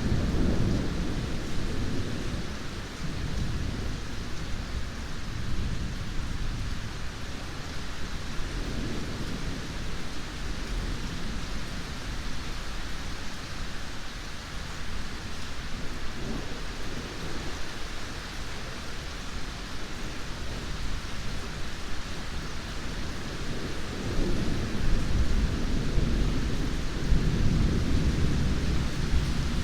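Steady heavy rain with rolling thunder: a low rumble right at the start and a louder, longer rumble building over the last few seconds.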